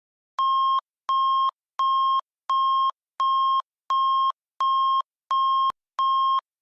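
Emergency alert tone of a mock emergency broadcast: a steady high beep repeated nine times at an even pace, each beep under half a second long. A faint click comes near the end.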